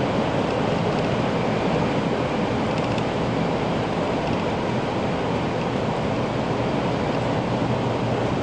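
Steady running noise of a Tokaido Shinkansen train at speed, heard from inside the passenger cabin.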